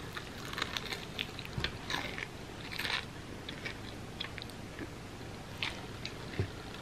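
Close-up biting and chewing of a giant chocolate-coated candy bar with a peanut butter and puffed-rice layer and peanuts, heard as many small, scattered crunches and crackles.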